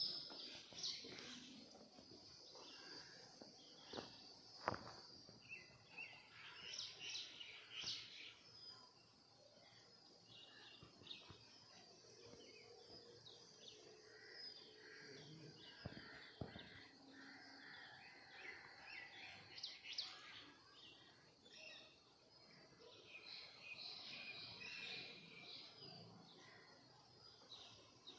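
Faint outdoor birdsong: many short chirps and twitters from several birds, with a couple of sharp clicks about four to five seconds in.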